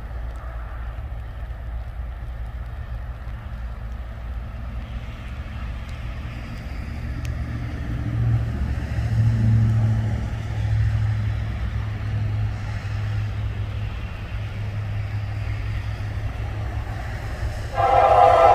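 Steady low rumble of freight trains on the line. Near the end, a diesel locomotive's horn starts blowing, loud.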